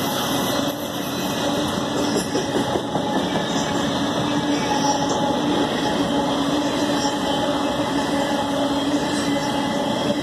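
Empty open-top ore cars of a Union Pacific freight train rolling past: the steady noise of steel wheels on the rails, with a faint steady tone running through it.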